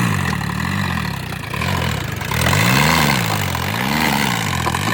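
Diesel engine of a JCB 3DX backhoe loader running, its pitch swelling up and falling back about once a second from about halfway through as the engine is worked.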